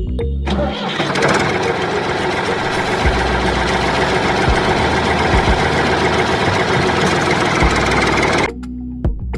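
An engine starting and then running steadily, cutting off abruptly near the end.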